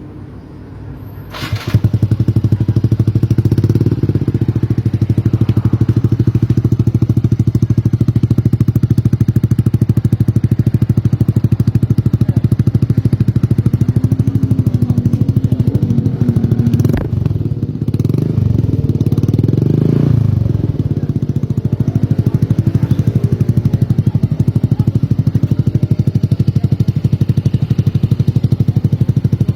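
Yamaha Mio M3 scooter's single-cylinder 125 cc engine through an aftermarket DOS exhaust, starting about a second and a half in and then idling with a rapid, even exhaust pulse. Past the middle it is revved up and down a few times, with a sharp knock among the revs, then settles back to a steady idle.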